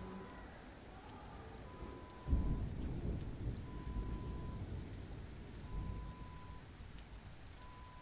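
Steady rain with a low roll of thunder that breaks about two seconds in and slowly dies away. A faint high beep repeats about every two seconds.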